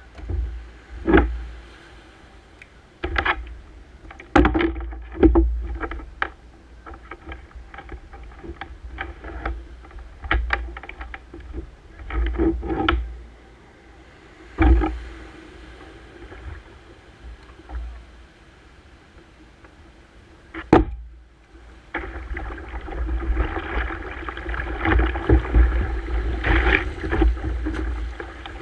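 Kayak on the water: irregular splashes and knocks from paddling against the hull, over a low rumble of wind on the microphone, getting busier and louder in the last few seconds.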